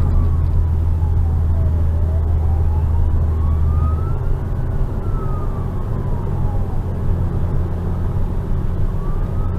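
Police car siren on a slow wail, its pitch sweeping smoothly down and up every couple of seconds, over a steady low drone of road and engine noise.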